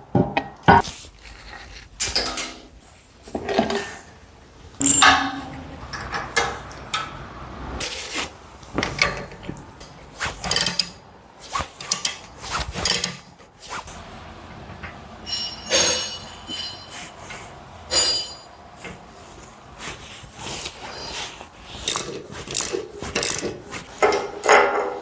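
Irregular metal clanks, knocks and clinks of parts and hand tools being handled while a tractor-mounted hydraulic log splitter is assembled, some strikes leaving a brief metallic ring.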